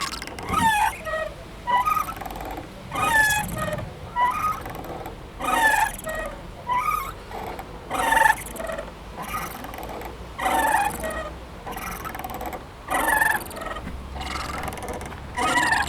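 Playground swing squeaking as it swings back and forth, a squeal about every two and a half seconds with smaller squeaks in between.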